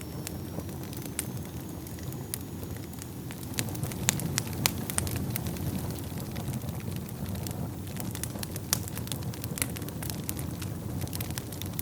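Wood fire burning in a fireplace: a steady low rumble of flames with frequent sharp crackles and pops, a cluster of louder pops about four to five seconds in and another near nine seconds. A faint thin high whistle is heard in the first few seconds.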